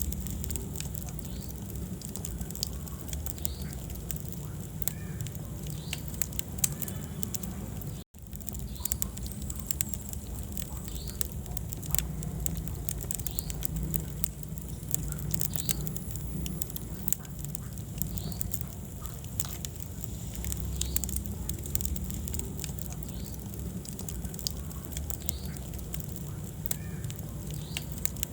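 Wood fire burning in a fireplace: frequent sharp crackles and pops over a steady low rumble of the flames. The sound cuts out for an instant about eight seconds in.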